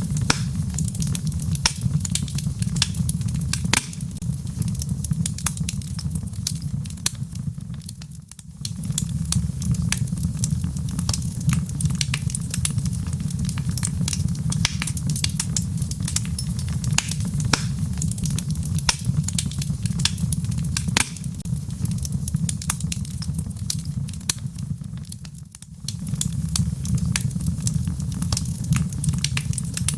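Log fire burning in a fireplace: a steady low rumble of flames with frequent sharp crackles and pops from the wood. The sound briefly drops away twice, about eight seconds in and again near twenty-five seconds.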